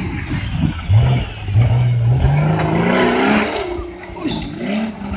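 Off-road competition vehicle's engine revving hard under load as it climbs a steep dirt slope, its pitch rising and falling as the throttle is worked, with spectators' voices in the background.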